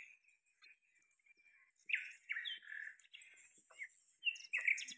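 Birds chirping: clusters of short, quick calls about two seconds in and again near the end, over a steady faint high-pitched hiss.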